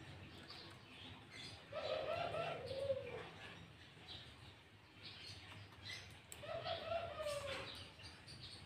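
Sooty-headed bulbul (kutilang) singing: two loud whistled phrases about five seconds apart, each sliding down in pitch, with faint chirping between them.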